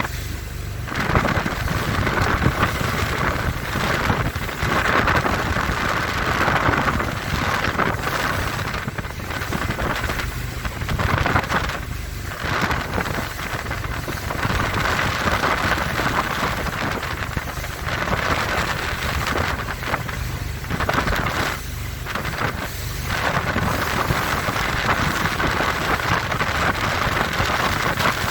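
Four Winns Liberator powerboat running through rough chop: engine, water rushing along the hull and heavy wind noise on the microphone. The noise dips and swells again every few seconds as the boat rides over the waves.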